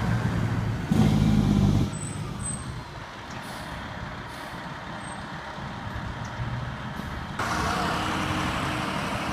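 Fire truck diesel engine running, loudest in the first two seconds, then dropping to a quieter steady hum. About seven seconds in, a louder rush of noise comes in and holds.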